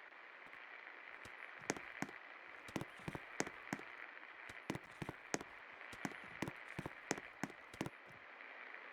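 A 56-inch Pak antique ceiling fan running, with a steady hiss and irregular sharp clicks, about two or three a second.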